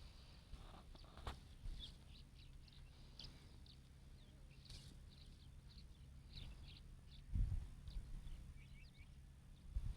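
Faint bird chirping: many short, high chirps. A dull low thump comes about seven seconds in, and another near the end.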